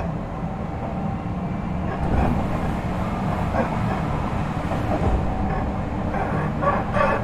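Odakyu 3000 series electric train heard from inside a motor car while running: a steady low rumble of wheels on rail, with a few short louder knocks from the track spread through it.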